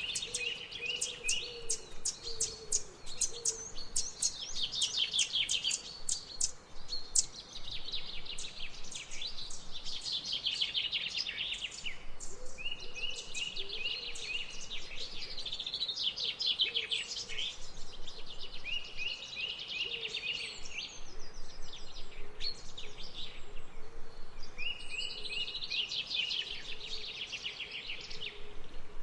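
Songbirds singing: trilled phrases of rapid high notes, each lasting a couple of seconds and repeating every few seconds. A faint low wavering call runs underneath.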